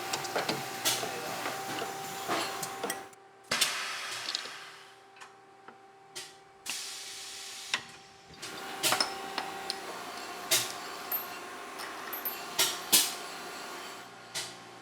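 Skateboarding: the board's wheels roll with a steady hiss, broken by a dozen or so sharp clacks of the board popping, hitting and landing. The sound cuts off abruptly a few times.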